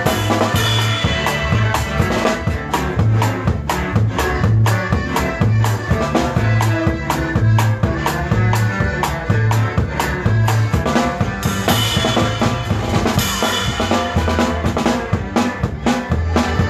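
Live norteño band music: drum kit and bass keep a steady two-beat rhythm, the bass alternating between notes on each beat, under the melody instruments.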